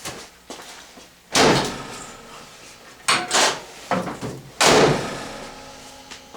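The heavy steel hood of a 1978 Pontiac Bonneville being slammed shut: a loud bang about a second and a half in, a quick pair of bangs around three seconds, and another bang near five seconds, each ringing briefly.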